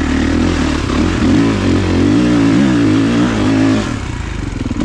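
Kawasaki KX450 dirt bike's four-stroke single-cylinder engine running, its revs rising and falling with the throttle, then settling to a lower, steadier note near the end.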